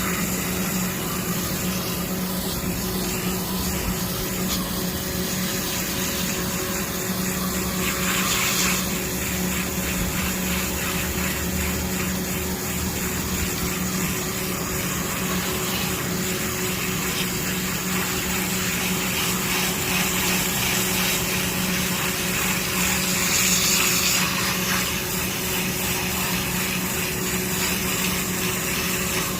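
Coil-cleaning water sprayer running steadily while rinsing an air-conditioning condenser coil: a pump motor hums under a constant hiss of spray. The spray grows briefly louder and brighter about eight seconds in and again near twenty-three seconds.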